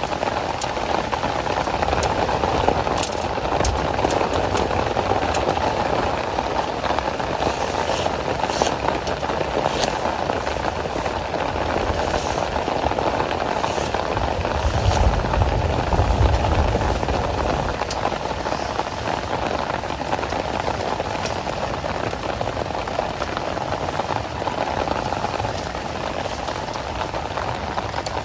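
Heavy rain falling steadily, with scattered sharp drop impacts, and a low rumble that swells briefly about halfway through.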